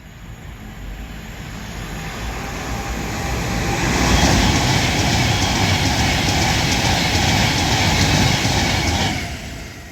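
Class 390 Pendolino electric train passing through the station at speed without stopping: a rush of wheel and air noise that builds over about four seconds, stays loud for about five, then drops away quickly near the end.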